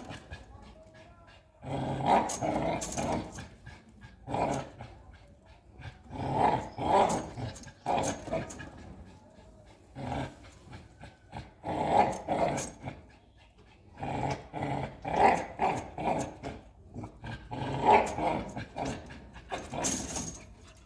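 American Pit Bull Terrier growling in repeated rough bouts of one to three seconds, with short pauses between them.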